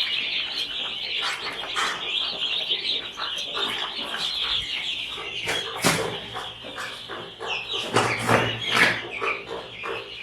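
A crowd of two-day-old chicken chicks peeping continuously, many high chirps overlapping, with a few louder knocks or rustles about six and eight seconds in.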